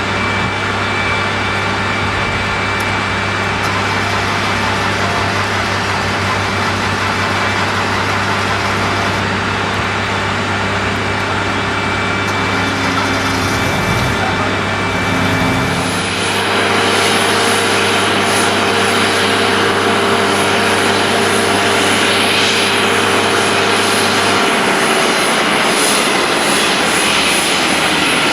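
Boeing 737-200's Pratt & Whitney JT8D turbofan engines running, a loud steady noise with a low hum underneath. About halfway through, the sound brightens and a high whine comes in, and the low hum drops away a few seconds before the end.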